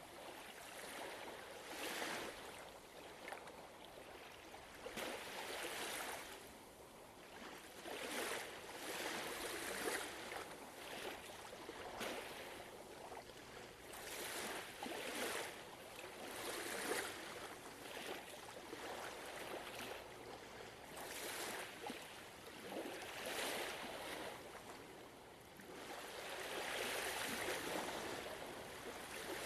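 Gentle ocean waves washing in, a rush of water that swells and fades every few seconds and is loudest near the end.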